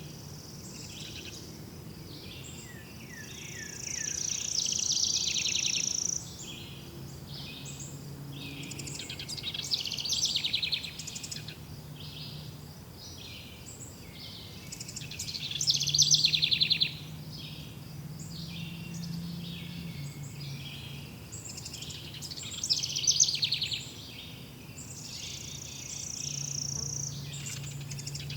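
Several forest birds singing at once, with overlapping songs, chirps and rapid trills that rise and fall in loudness, louder phrases coming about every five or six seconds. A faint low steady hum lies underneath.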